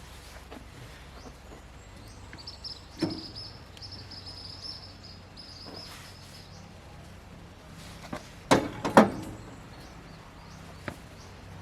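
Two loud knocks close together, with a short ring after them, about eight and a half seconds in, and a lighter knock near three seconds, over faint outdoor background with a thin high steady tone for a few seconds.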